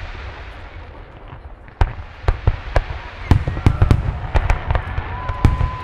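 Fireworks show heard from a distance: after a short lull, sharp bangs of shells bursting come faster and faster over a low rumble, building into a barrage. Near the end a steady high whistle rises above the bangs.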